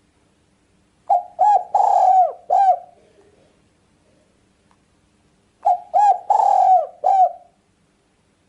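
Spotted dove (tekukur) cooing: two call phrases about four and a half seconds apart, each a run of four arching coos with a longer third note.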